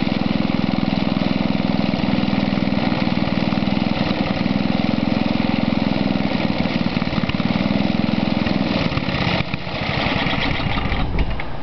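Snow blower's small engine running steadily, then faltering about nine seconds in, running unevenly and winding down as it stalls on its own.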